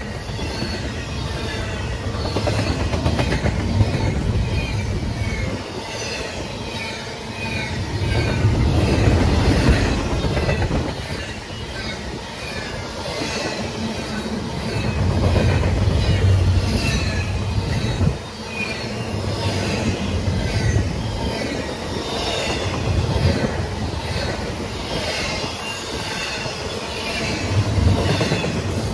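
Train rolling past with a steady rumble that swells and fades every few seconds, and high wheel squeal throughout.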